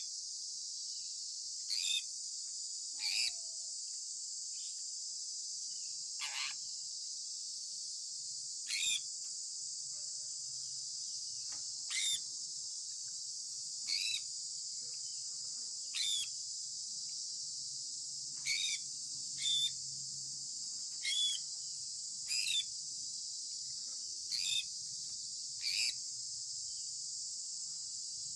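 Sun conure parrot giving short, falling chirps, one every second or two, about a dozen in all, over a steady high-pitched insect hum of crickets.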